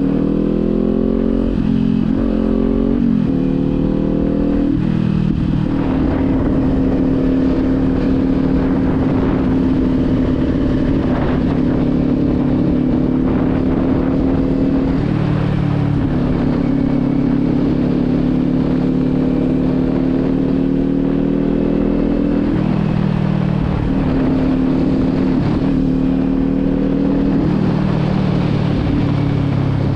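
Kawasaki motorcycle engine pulling away and revving up through the gears over the first few seconds, then running at a steady cruise with a few gear changes about halfway through and later on. It is picked up by the GoPro's own microphone, with no external mic.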